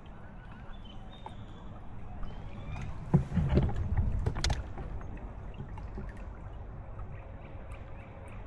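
Water sloshing around a kayak, with a burst of splashing and a few sharp knocks on the hull about three to four and a half seconds in.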